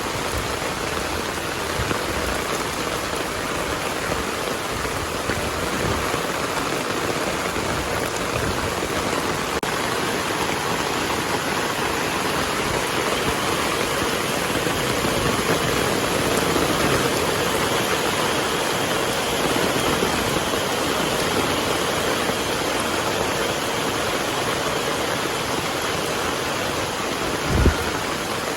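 Heavy rain falling steadily in a dense, even hiss, with a brief low thump near the end.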